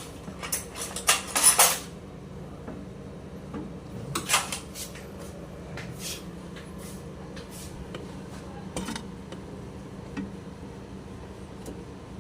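Metal hand tools and engine parts clinking and tapping: a quick run of clinks in the first two seconds, then a few scattered single knocks, over a faint steady low hum.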